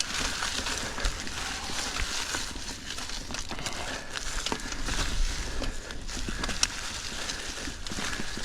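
Mountain bike climbing a rocky trail: tyres rolling and crunching over rock and dirt, with scattered clicks and rattles from the bike and a low rumble of wind and vibration on the mic.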